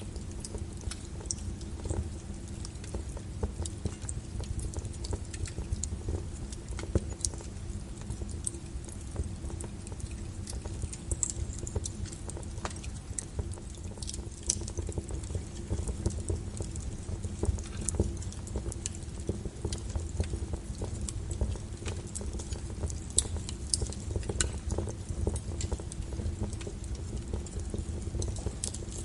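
Log fire burning in a fireplace: irregular sharp crackles and pops over a steady low rumble, with a couple of louder pops along the way.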